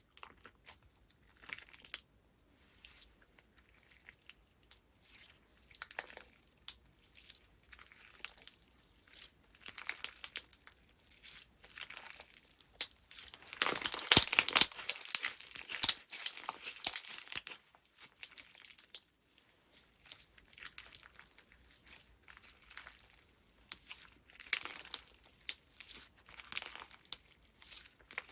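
Slime being squeezed, stretched and pressed by hand, giving irregular clusters of crackling and crinkling. It is loudest and densest for a few seconds about halfway through.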